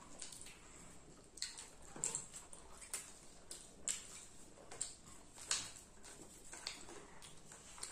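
Children chewing popcorn and french fries close to the microphone: irregular crisp crunches and mouth clicks, about one or two a second.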